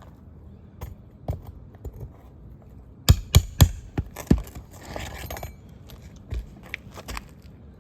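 Nail puller working roofing nails out from under shingles: sharp metal knocks and clinks, the loudest in a quick cluster about halfway through, followed by a brief scrape.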